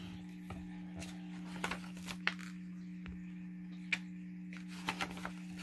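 Pages of a paperback recipe cookbook being turned, a few short, soft rustles and flicks of paper over a steady low hum.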